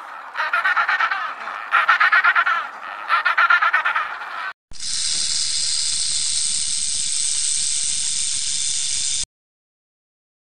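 An African penguin braying in bouts of rapid, harsh pulses that grow louder. About four and a half seconds in, a rattlesnake's rattle takes over as a steady, high buzz, and it cuts off suddenly a second before the end.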